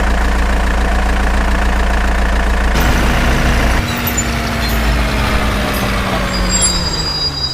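Vehicle engine idling steadily, then changing about halfway through, its pitch sinking slowly as it winds down.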